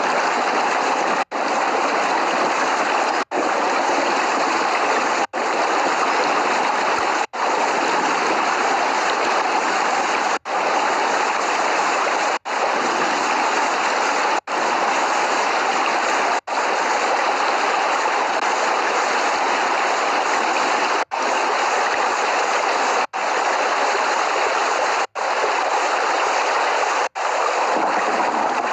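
Steady hiss of heavy rain, with no thunder. The sound cuts out for a split second roughly every two seconds, like a short loop stitched together with gaps.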